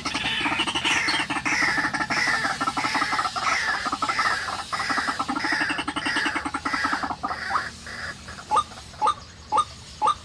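White-breasted waterhen calling: a run of rapid pulsed phrases, each falling in pitch, about two a second, then from about eight seconds a series of short, loud rising notes at about the same pace.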